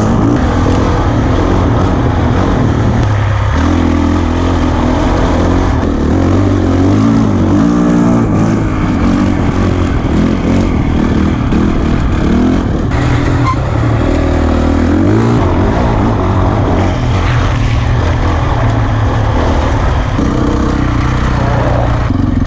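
Dirt bike engine running under load while riding, its pitch rising and falling as the throttle is worked and it goes through the gears, with wind noise on the microphone.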